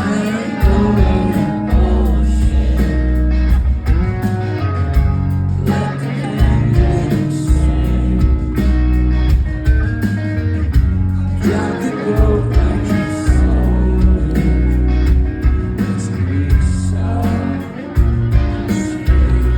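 Live rock band playing loudly, with electric guitars, heavy bass and drums under a sung vocal line.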